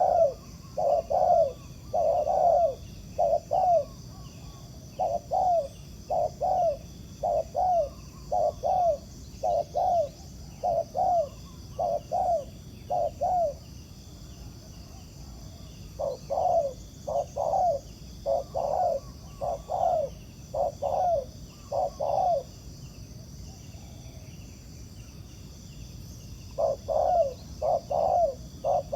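Spotted doves cooing in repeated short notes, about two a second, in three long runs with pauses between: the courtship 'gù' coo of a wild male answering a decoy.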